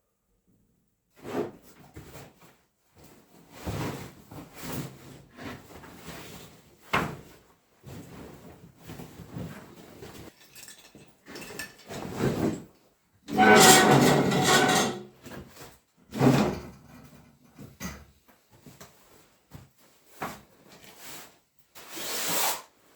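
Wood being handled: a series of irregular scrapes, rubs and knocks, the loudest and longest scrape coming about halfway through.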